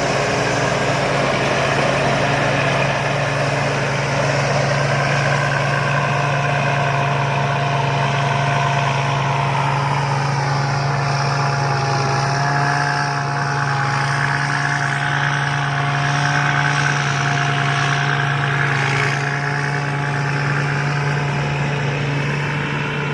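Rice combine harvester's engine running steadily under load, a constant low hum with a steady whine above it.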